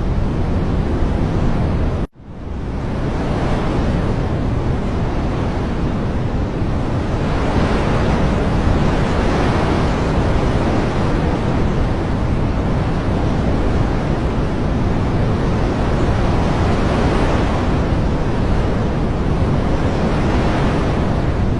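Steady rushing water ambience, a dense even wash of noise. About two seconds in it cuts out abruptly and swells back over about a second, like a splice in a looped recording.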